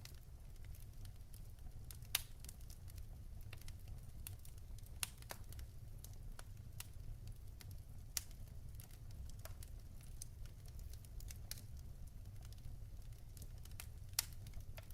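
Wood fire burning in a fireplace: a steady low rumble of flames with irregular crackles and sharp pops from the logs, the loudest pops about 2, 5, 8 and 14 seconds in.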